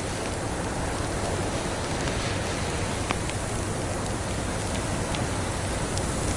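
Wood fire crackling in a fireplace, with scattered small snaps and pops over a steady rushing noise of snowstorm wind.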